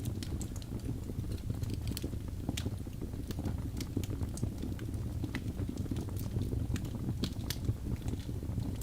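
Birch logs burning in a fireplace: a steady low rumble from the fire with frequent sharp crackles and pops at irregular intervals.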